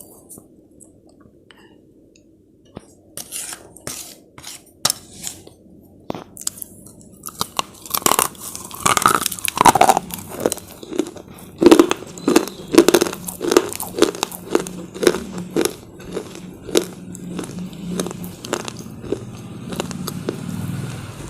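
Close-up bites and crunching of hard, brittle slate chips being chewed: a few sparse cracks at first, then quick, dense crunching from about a third of the way in.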